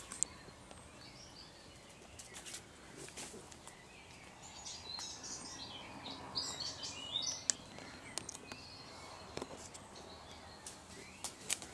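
Small birds chirping, busiest about halfway through, with a few sharp clicks and light rustling from someone pushing through brush.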